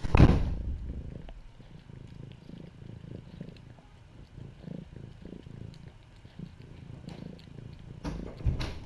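A cat purring, a low fluttering rumble, with a loud knock at the start and another just before the end.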